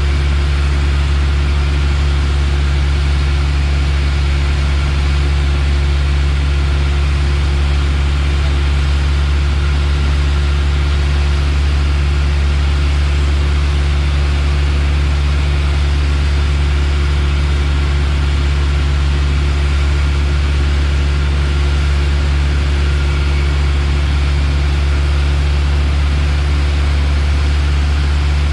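Piper Warrior's four-cylinder Lycoming engine and propeller droning steadily, heard inside the cockpit, with a constant low hum and a hiss of noise above it.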